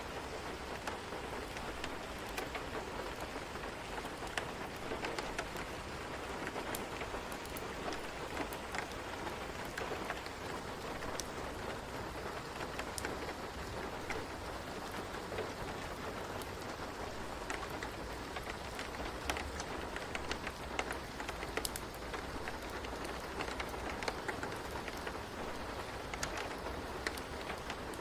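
Steady rain falling, with many scattered drops ticking on a surface.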